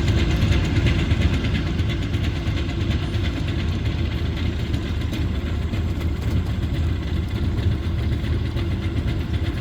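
An engine idling steadily: a low, even hum with no change in pitch.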